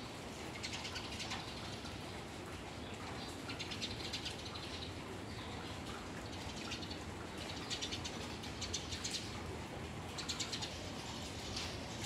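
Small wild birds chirping in short bursts of rapid high notes every second or two, over a steady hiss of rain and trickling water.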